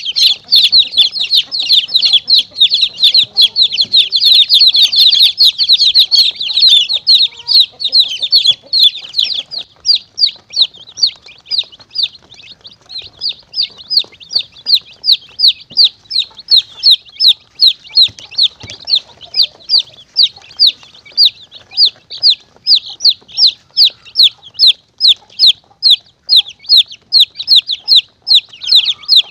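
Baby chicks peeping nonstop in short, high, falling cheeps: a crowded overlapping chorus for the first third, then thinning to about three peeps a second. A chick-distress lure call used to draw monitor lizards and mongooses.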